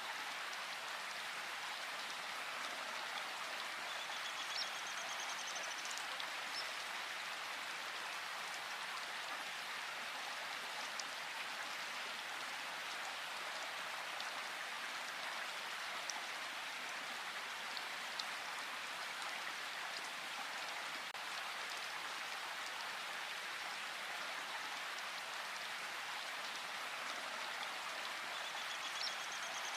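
Steady rain falling in a forest, an even hiss of drops. A brief high, fast bird trill comes through about four seconds in and again near the end.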